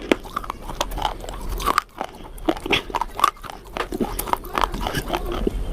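A person biting and chewing crunchy food close to the microphone, with a rapid, irregular run of crisp crunches and crackles.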